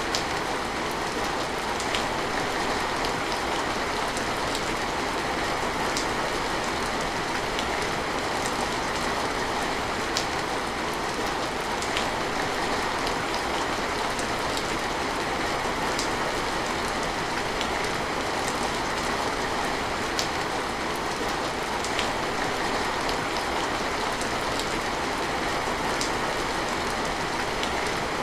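Steady rain falling, an even hiss with an occasional sharper drip hitting a surface every few seconds.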